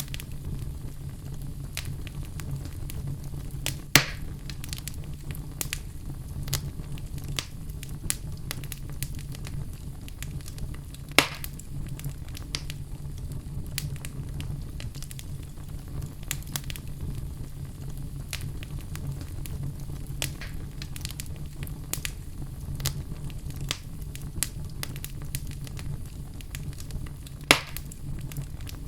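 Wood fire burning in a fireplace: a steady low rumble of flames under constant small crackles, with three sharp louder pops, at about four seconds, about eleven seconds and near the end.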